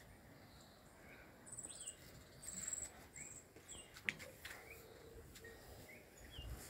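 Faint birds chirping: a series of short, high trills and small falling chirps. A single sharp click about four seconds in.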